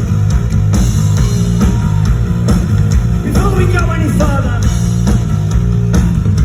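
Live rock band playing loud, with distorted electric guitar, bass and drums on a steady beat.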